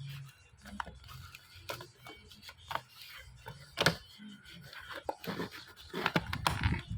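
Small plastic sharpener case being handled and pried at while it resists opening: light clicks and rubbing, with one sharper click about four seconds in. Louder, rumbling handling noise comes near the end.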